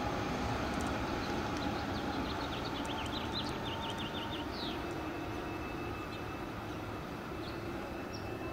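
Passenger train running away down the track, its low rumble slowly fading. A bird chirps a quick run of short notes about two to four seconds in.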